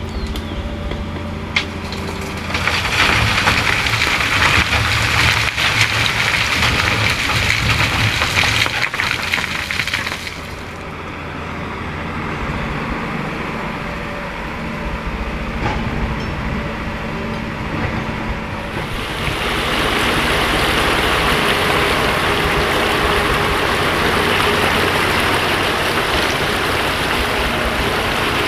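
Diesel engines of an excavator and a dump truck running steadily, with two long stretches of loud rushing hiss, one from about three seconds in to about ten, the other from about two-thirds of the way through: sand pouring from the excavator bucket into the truck bed.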